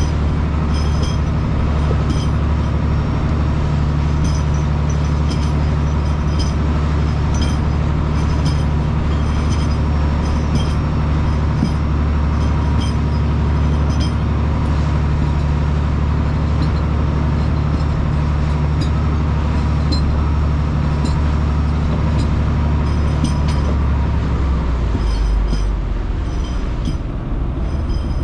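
Fishing boat's engine running steadily with a deep, even drone, with faint high clicks recurring over it. About 25 seconds in the engine note drops lower.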